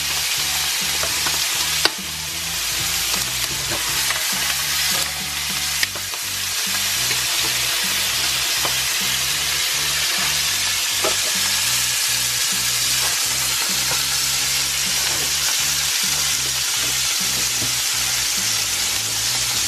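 Lobster tails and a steak sizzling steadily in hot butter and oil in frying pans. Two sharp clicks come about two and six seconds in.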